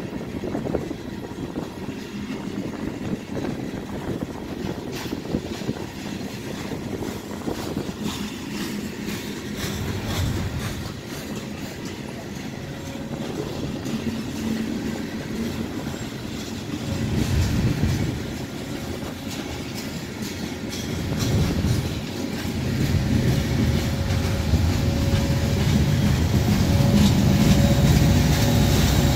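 Loaded coal train rolling past, its cars' wheels clicking over the rail joints. In the last several seconds the low drone of diesel locomotive engines builds as the locomotives draw near.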